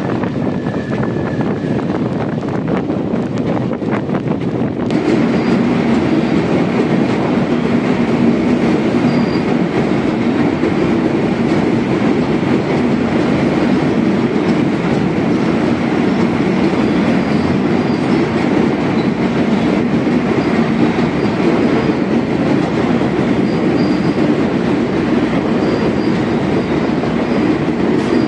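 Indian Railways express train running at speed, heard from aboard: a steady rumble and rattle of the coaches' wheels on the rails. About five seconds in, the sound becomes fuller and louder.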